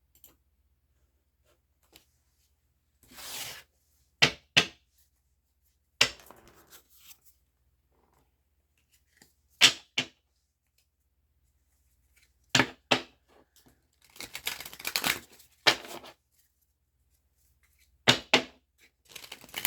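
Tarot cards being shuffled and handled: short, sharp snaps and riffles at irregular intervals, with a longer stretch of riffling about two-thirds of the way in.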